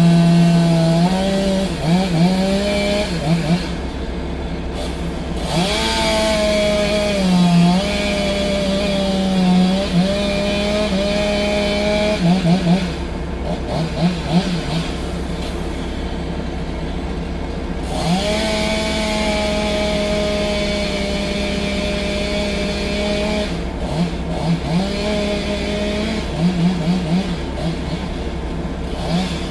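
An engine running under changing throttle: its pitch drops and rises several times, holds steady for a few seconds at a time, and gives a string of quick revs near the end.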